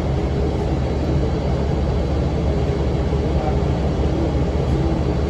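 Cummins ISM diesel engine of a 2006 NABI 40-foot low-floor transit bus running steadily, with its engine cooling fan running, a constant low rumble that holds an even level throughout.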